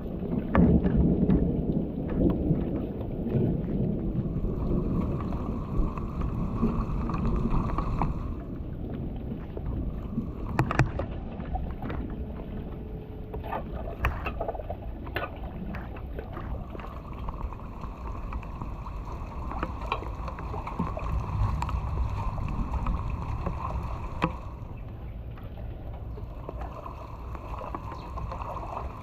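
Water rushing and churning in a steady low rumble, louder in the first eight seconds, with a few sharp knocks about ten to sixteen seconds in.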